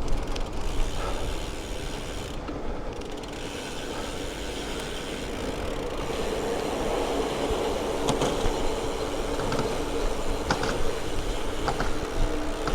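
A bicycle being ridden, with mechanical clicking and rattling from its drivetrain and frame over road noise. A steady low hum strengthens a little partway through.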